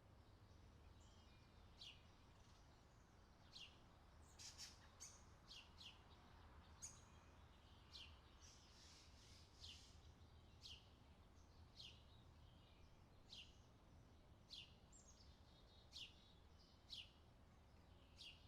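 Faint birdsong: short, sharply falling chirps repeated about once a second, with a few overlapping calls in the first half, over a steady low hum.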